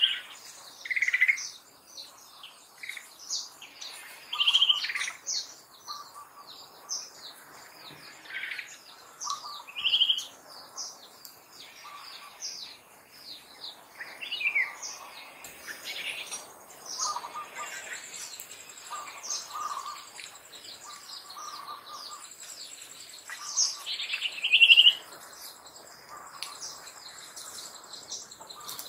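Several birds chirping and calling in short, repeated notes, with a high, steady pulsing insect buzz coming in about halfway through.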